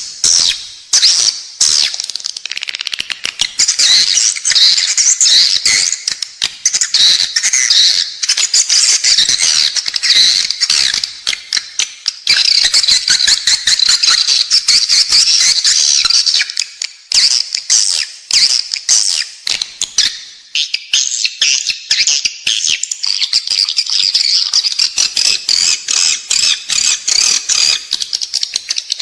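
Edible-nest swiftlet calls: a loud, unbroken chatter of rapid high chirps and clicking twitters. This is a lure track played inside a swiftlet house to draw the birds in to nest.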